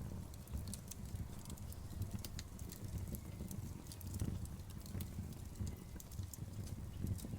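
Outdoor bonfire burning with a low steady rumble and scattered sharp crackles and pops from the burning wood.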